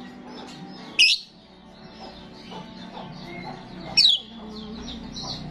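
Starling calling: two loud, sharp whistles that fall steeply in pitch, about three seconds apart, over softer continuous chirping and chattering.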